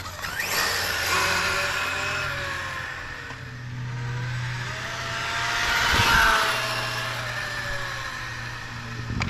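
HPI WR8 1/8-scale rally RC car driving, its motor's pitch rising and falling as it speeds up and slows, loudest about six seconds in.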